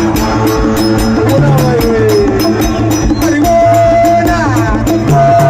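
Loud live band music played through a PA, with a steady fast drum beat over a bass line, and held melodic notes that glide down in pitch partway through.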